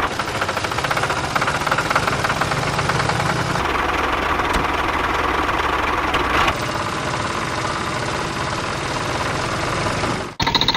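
Mini tractor running with a steady, fast knocking engine beat. The sound changes abruptly about three and a half and six and a half seconds in, and cuts out briefly near the end.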